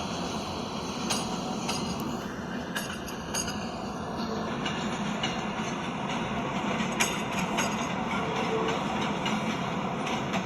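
A train moving on the rails: a steady rumble with scattered sharp metallic clicks and clanks.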